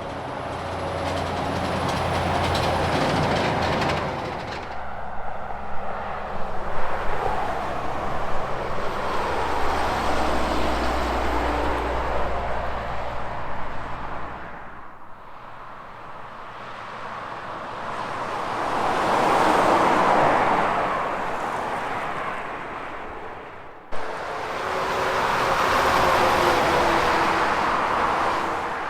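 Several semi trucks driving past one after another on a highway, each pass swelling and fading with engine and tyre noise. The second pass is rough and uneven. There is an abrupt click about two-thirds of the way through, just before the last truck goes by.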